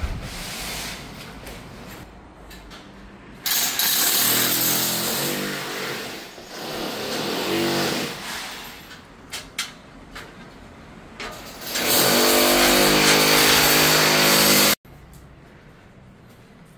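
A handheld electric power tool runs in two loud bursts, a motor whine over a harsh hiss, the second cutting off abruptly near the end.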